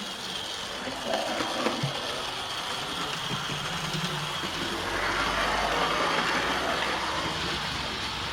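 Vintage Hornby 00 gauge model locomotive running along the track, its small electric motor and wheels making a steady running sound that grows louder about five seconds in. It runs smoothly on freshly cleaned rails.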